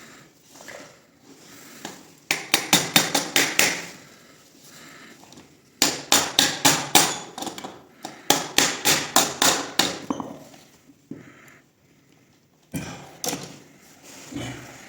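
A hammer striking quickly and repeatedly, about six blows a second, in three runs of eight or nine blows with pauses between, then a shorter run near the end.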